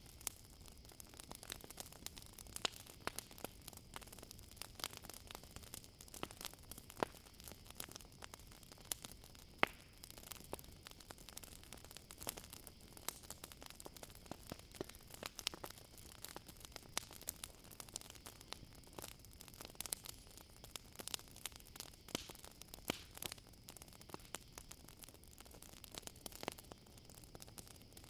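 Campfire crackling, with many irregular sharp pops and snaps, over a steady high-pitched chorus of crickets.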